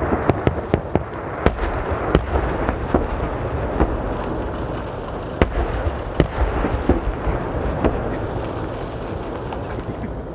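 Aerial fireworks bursting in quick succession: many sharp bangs over a continuous rumbling crackle, thinning out and growing quieter near the end.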